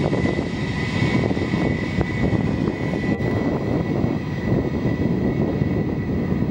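Airbus A319 jet engines running at low power, a steady high whine over a rumbling roar, as the airliner moves along the runway.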